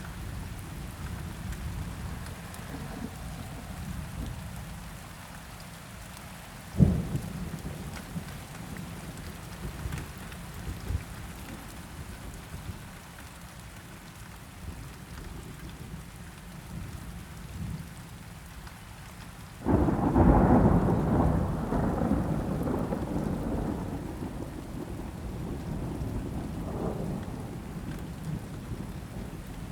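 Steady rain falling, with a sharp thunder crack about seven seconds in. Past the middle comes a loud, sudden thunderclap that rumbles on for several seconds and slowly fades.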